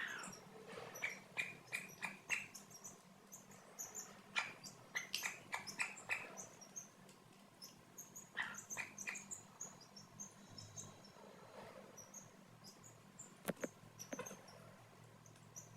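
Young chickens peeping: short, high-pitched calls in quick runs of several per second, busiest in the first half and then more scattered.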